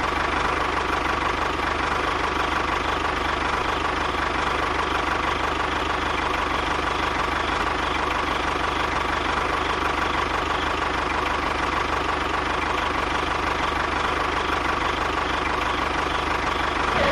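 A small engine or motor-driven machine running steadily at a constant speed, with an even mechanical rattle and a faint steady whine.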